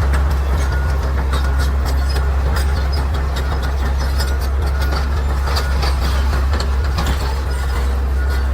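Crawler bulldozer's diesel engine running steadily, with its steel tracks clanking and rattling irregularly.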